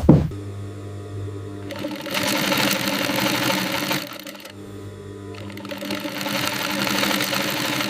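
Sewing machine running in two stitching runs, the first beginning about two seconds in and stopping near the middle, the second starting a little later and carrying on, over a steady motor hum.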